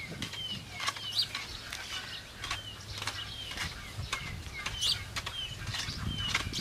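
Birds calling with short, falling chirps repeated every second or so, among scattered sharp clicks and knocks.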